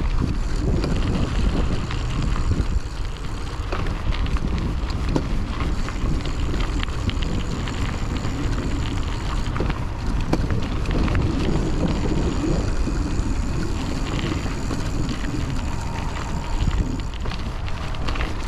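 Raleigh Trailblazer T6 hardtail mountain bike riding over an off-road trail, tyres rolling with scattered small clicks and rattles, under steady wind buffeting the microphone.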